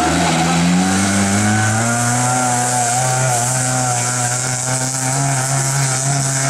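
Rally car engine held at high revs, its pitch climbing over the first two seconds and then staying steady.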